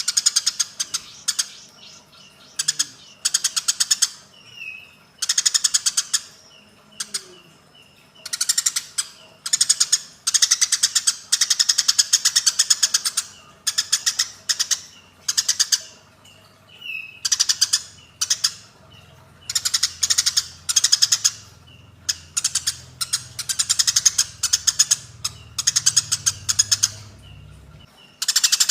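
Recorded birdsong of the kind used to train white-rumped shamas to sing: bouts of fast, rattling trills about every second or two, with short whistled notes between them.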